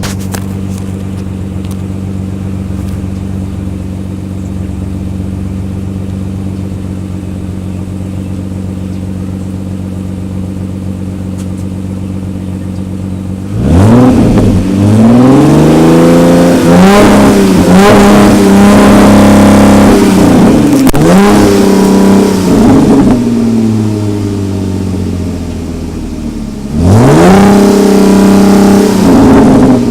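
A 2005 Dodge Magnum's 3.5-litre HO V6 running through a Dynomax cat-back exhaust: idling steadily, then revved again and again from about halfway, held up high for a few seconds, and revved once more near the end. The revs are capped by the rev limiter at around 4,000 rpm.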